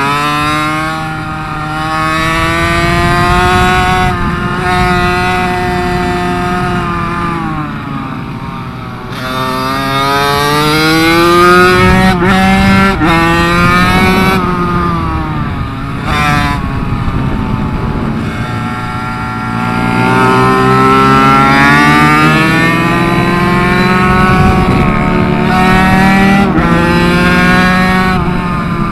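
Small minibike engine on track, revving up on the straights and dropping back for corners, its pitch climbing and falling over several-second stretches. There are two sharp breaks in the engine note near the middle.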